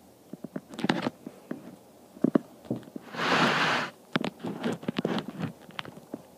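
A dachshund moving about: scattered light clicks and knocks, with one short rushing noise about three seconds in that lasts under a second.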